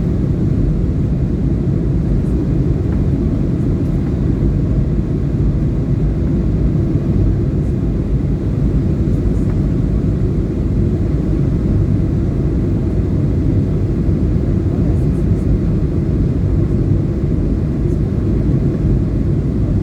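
Steady low rumble of an airliner in flight, heard from inside the passenger cabin as an even, unbroken drone of engine and airflow noise.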